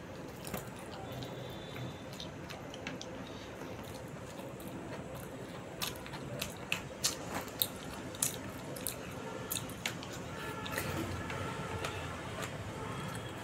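Close-miked chewing and biting of food eaten by hand, moist mouth sounds with a run of sharp crunchy clicks about halfway through.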